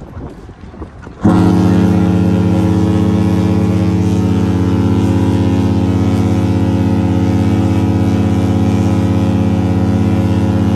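Cruise ship's horn sounding one long, deep blast that starts about a second in, holds steady for about nine seconds and cuts off near the end, leaving a brief echo.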